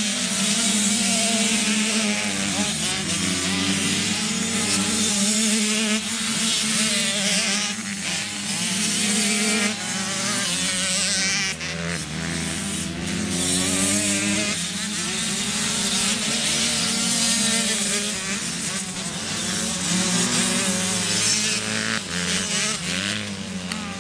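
Several motocross bike engines revving up and down as they race, their pitch rising and falling over a steady low hum.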